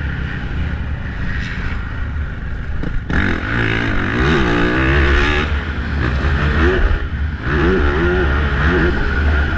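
Motocross dirt bike engine being ridden hard, its revs climbing and dropping again and again from about three seconds in.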